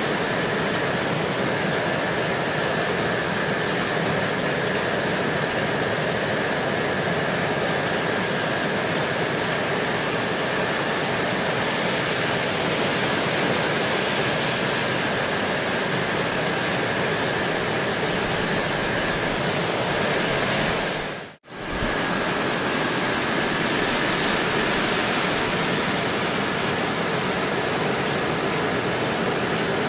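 Gentle rain falling steadily, an even hiss of drops. About two-thirds of the way through the sound cuts out for a split second and comes straight back.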